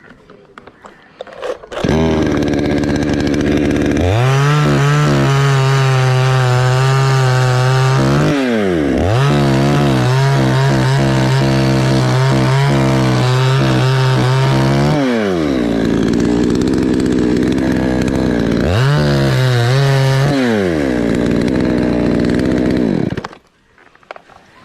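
Two-stroke chainsaw cutting into an Anjili tree. It idles, then runs at full throttle in two long stretches, drops back to idle, revs once more briefly and is shut off near the end.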